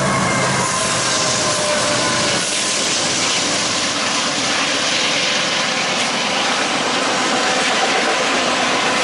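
Diesel-powered freight train passing close below, its locomotives (a GE ES44AC, an EMD SD70M and a GE C40-9) running with a low drone. About two seconds in, the drone gives way to a loud, steady rush of steel wheels on rail as the intermodal trailer flatcars roll by.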